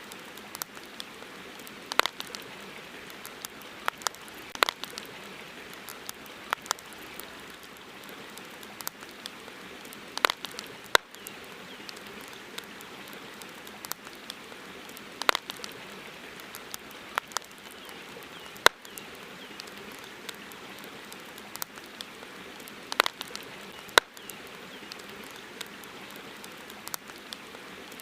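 Campfire wood crackling: irregular sharp pops every second or two, some much louder than others, over a steady hiss of lapping river water.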